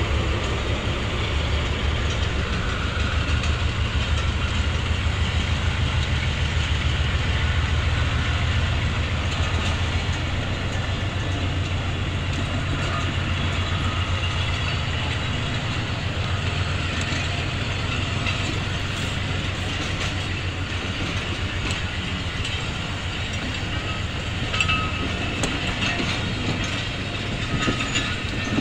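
Passenger coaches of a train rolling past: a steady low rumble of steel wheels on rail, with a few sharp clicks and clanks near the end.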